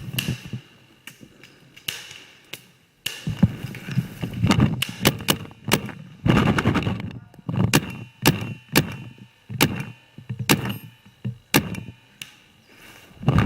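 Paintball markers firing single sharp pops at irregular intervals, bunched most thickly in the middle stretch, over low bumping and rustling from a player moving through the undergrowth.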